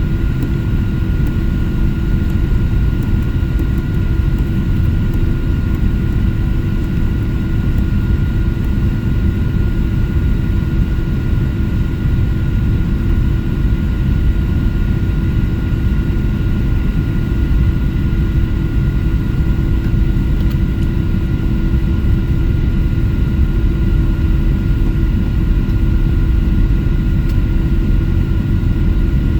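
Airplane engines running steadily while the aircraft taxis: a constant low rumble with a few steady whining tones above it.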